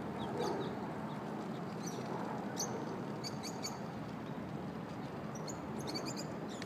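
Outdoor ambience: a steady hiss of background noise with short, high bird chirps scattered through it, in small clusters.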